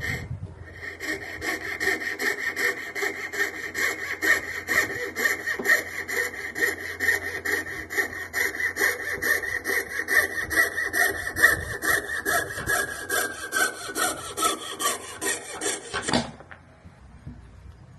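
A bone blank for a guitar saddle being cut with a fine hand saw in quick back-and-forth strokes, about three or four a second. A ringing tone in the stroke slides down in pitch as the cut goes on, and the sawing stops shortly before the end.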